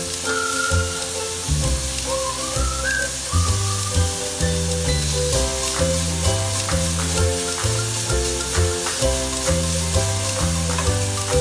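Ground meat sizzling in a nonstick frying pan as it is stirred with a slotted spatula, under background music with a moving bass line.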